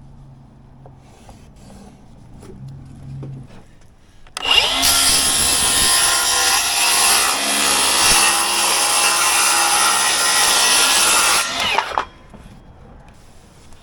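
A power saw spins up about four and a half seconds in, cuts steadily for about seven seconds, then winds down. Light handling noises come before it.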